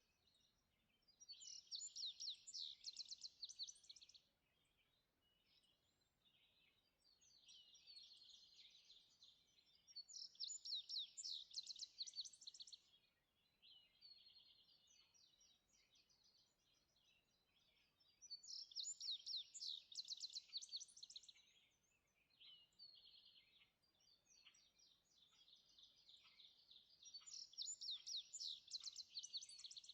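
Songbirds singing: one bird repeats a loud song of about three seconds, a quick run of rapid notes, four times about eight seconds apart, while fainter songs from another bird fill the gaps.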